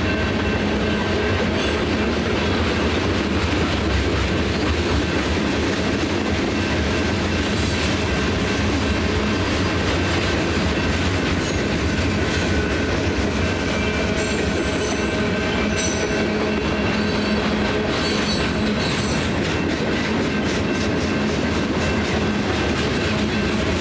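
Freight train of tank cars rolling past at speed: a steady rumble of steel wheels on the rails with a rhythmic clickety-clack, and high wheel squeals now and then in the second half.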